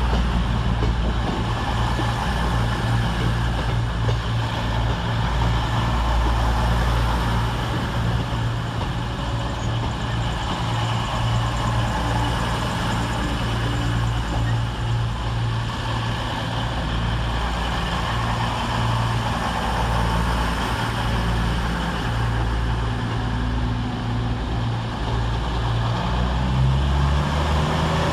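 Diesel multiple units, Class 221 Super Voyagers and a Class 175, idling at the platform as a steady low engine drone. Near the end one engine note rises.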